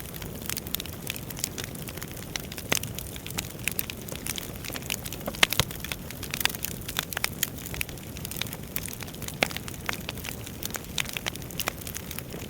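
Wood fire in a fireplace crackling: irregular sharp pops and snaps over a steady low rumble of the flames, with a few louder pops scattered through.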